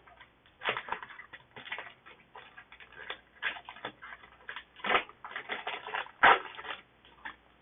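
A Digimon Card Game booster pack and its cards being handled: a quick irregular run of crinkles and clicks, loudest twice, about five and six seconds in.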